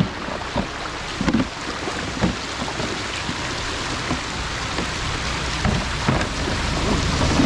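Steady noise of moving water, with a few short splashes or knocks.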